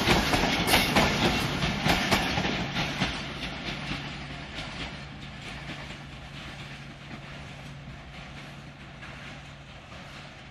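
Passenger train coaches clattering over the rail joints, a rapid string of wheel clicks that fades steadily as the end of the train draws away down the line.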